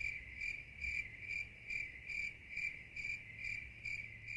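Cricket chirping sound effect: a single high chirp repeating evenly about two and a half times a second.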